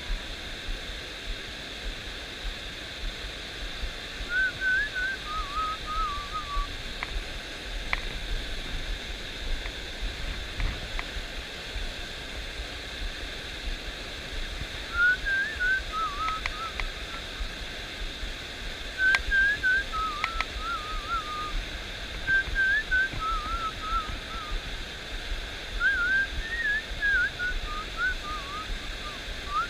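A person whistling in short wavering phrases, several times, over the steady rush of a stream.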